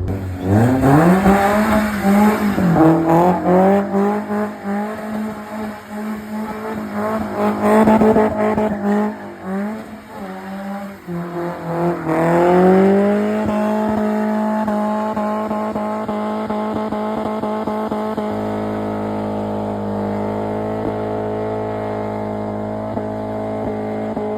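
A car engine revs hard over and over with tyre squeal. About halfway through it climbs once more and holds a steady high rev for about ten seconds.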